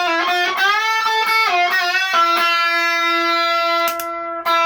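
Electric guitar with overdrive from the Crayon side of a JHS Hot Wax pedal, playing a lead phrase with string bends that settles on a long sustained note about two seconds in.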